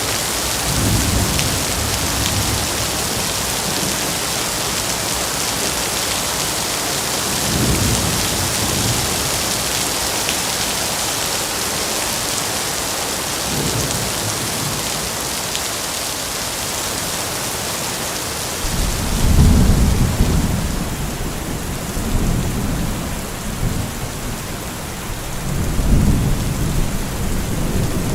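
Steady heavy rain hissing, with rolls of thunder rumbling in every few seconds. The loudest thunder roll comes about two-thirds of the way through.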